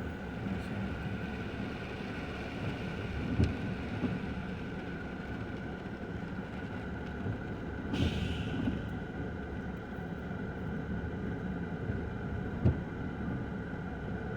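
Steady traffic and road noise in the rain, with a low rumble throughout. A short hiss rises and fades about eight seconds in, and there are a couple of soft knocks.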